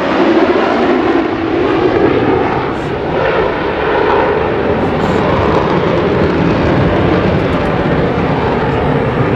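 A U.S. Air Force F-22 Raptor's twin Pratt & Whitney F119 afterburning turbofans, heard as loud, continuous jet noise from a low pass during its demonstration, its pitch shifting slowly as it moves.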